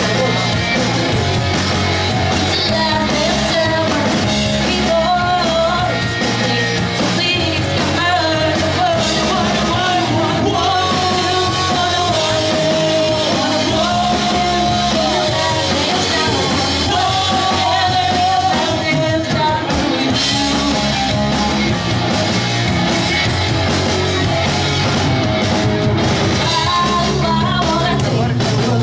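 Pop-punk band playing a song live, a lead vocal singing over the full band.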